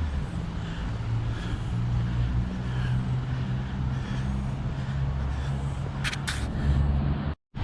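Steady low rumble of road traffic outdoors, with two short sharp clicks about six seconds in and a brief cut to silence near the end.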